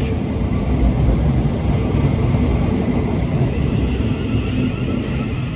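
Electric multiple-unit passenger train running through a station platform: a steady, loud rumble of wheels and traction, with a faint electric motor whine in the second half.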